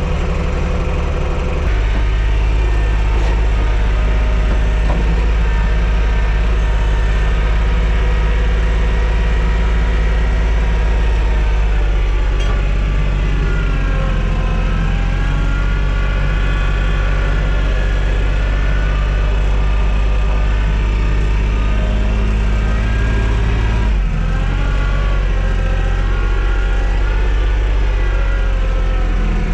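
TYM T224 subcompact tractor's diesel engine running at a raised throttle. Its note shifts about two seconds in, again around twelve seconds, and dips slightly around twenty-four seconds in.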